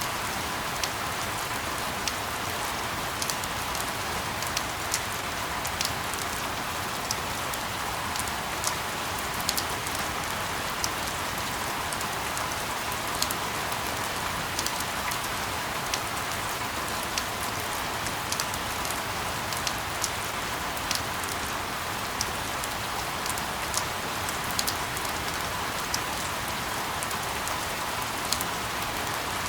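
Steady rain falling, an even hiss with many sharp drop ticks scattered irregularly through it.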